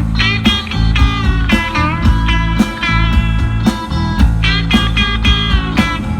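Rock band playing an instrumental passage: electric guitar with bent, sliding notes over bass and a steady drum beat.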